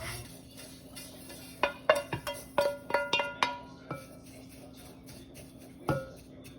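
A utensil clinking against a dish during stirring: a quick run of about a dozen sharp ringing clinks over about two seconds, then a single clink near the end.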